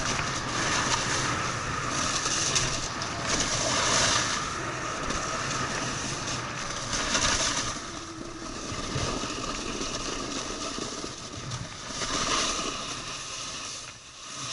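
Snowboard sliding over snow, a rasping hiss that swells with each turn, several turns in a row.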